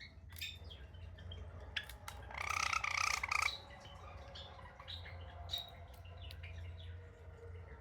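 Java sparrow chirping with short sharp clicks, breaking into a louder, harsh call lasting about a second, a little over two seconds in. A steady low hum runs underneath.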